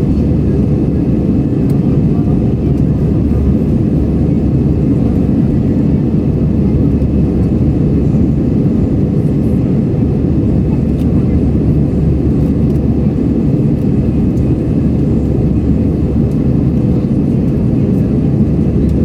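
Steady cabin noise of an Airbus A320 in flight: a loud, even low roar of airflow and jet engines with a faint high steady hum above it.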